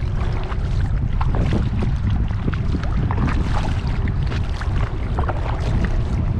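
Kayak on open water: a steady low wind rumble on the microphone, with many small, irregular splashes and drips of water around the boat and paddle.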